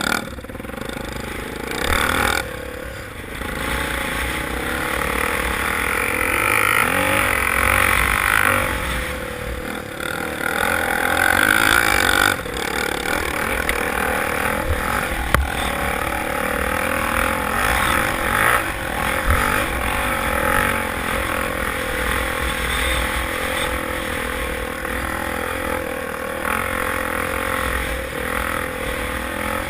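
Motocross motorcycle engines running steadily, loudest for several seconds near the start.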